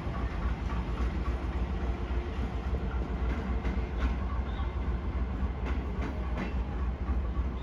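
Passenger train moving along the tracks with a steady rumble and a few faint clicks from the wheels.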